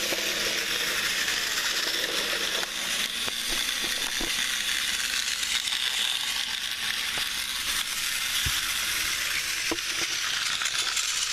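Battery-powered TrackMaster toy trains running on plastic track: a steady whirring rattle with a few scattered clicks.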